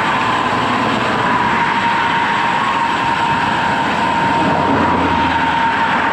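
Steady rush of wind over the microphone of a road bike in motion, with a thin steady high hum running under it.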